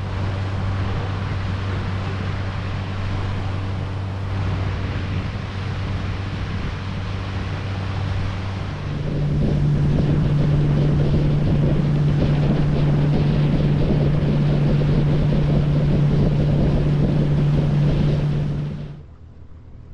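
Boat motor running steadily with wind and water rushing past, then throttled up about nine seconds in to a higher, louder hum as the boat speeds up; the sound drops away abruptly near the end.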